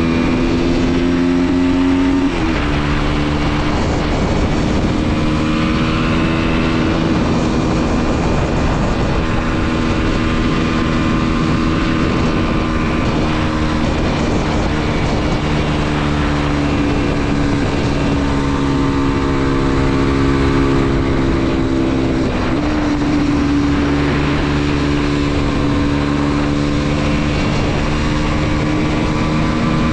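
Mondial SMX 125's single-cylinder four-stroke engine running steadily under way. Its note drops sharply twice, about two seconds in and again about two-thirds of the way through, and creeps up slowly in between. A steady rush of wind noise sits under it.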